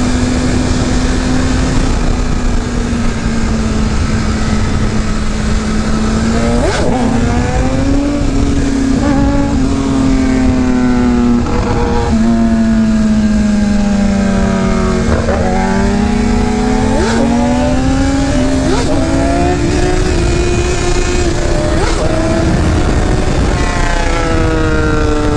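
A 1000 cc sport motorcycle engine running while ridden. Its pitch drifts slowly up and down, with several quick throttle revs that rise and fall, over a steady rush of wind and road noise.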